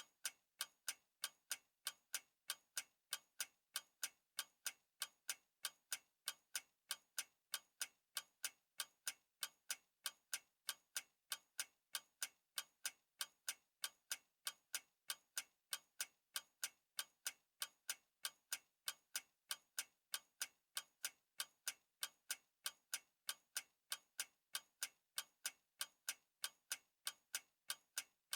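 Clock ticking steadily, with sharp, evenly spaced ticks at about three a second.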